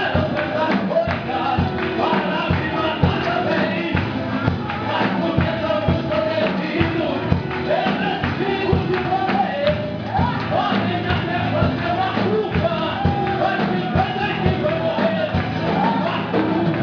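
Live gospel worship music: a congregation singing over a steady beat with tambourine.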